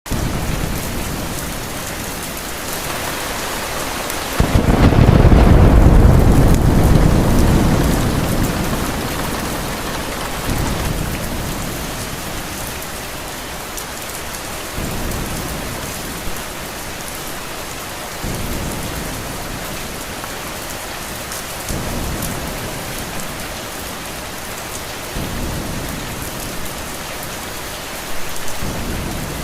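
Steady heavy rain with a loud thunderclap a few seconds in that rolls and fades over several seconds, followed by fainter low rumbles of thunder every few seconds.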